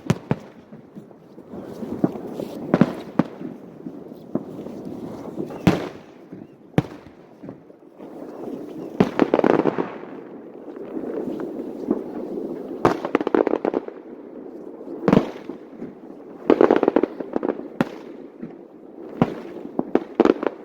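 Fireworks display: sharp bangs of aerial shells bursting at irregular intervals, over a steady background of crackling and fizzing from the bursts.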